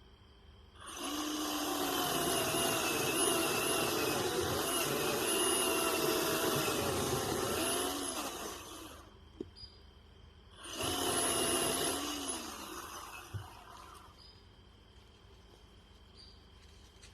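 Ryobi 18V brushless 10-inch cordless battery chainsaw running in two bursts, a long one of about eight seconds and a shorter one of about two seconds, its motor whine sagging in pitch as the chain bites into pine and falling away as each cut ends.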